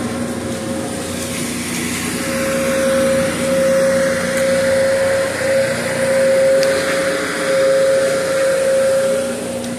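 A steady machine hum with a constant high whine over a rushing noise, unchanging throughout.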